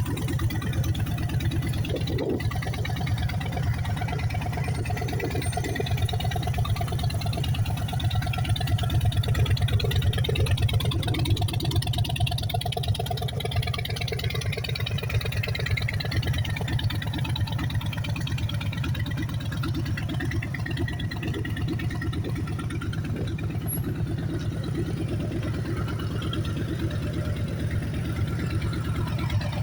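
Harley-Davidson Sport Glide's Milwaukee-Eight 107 V-twin idling steadily with an even pulsing beat, swelling a little louder around ten seconds in.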